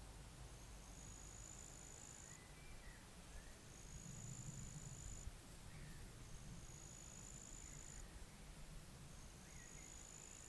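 Faint outdoor ambience: an insect's high, steady buzzing trill, each about a second and a half long, repeating about every three seconds, with a few faint bird chirps and a low wind rumble underneath.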